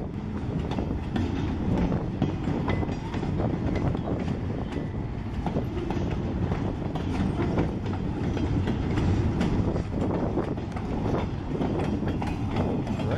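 Freight train cars, mostly empty bulkhead flatcars, rolling past at close range: a steady rumble with rapid clicking of wheels over the rail joints.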